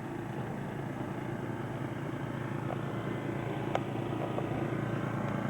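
A steady low mechanical hum made of several even tones, with a single short click about three and three-quarter seconds in.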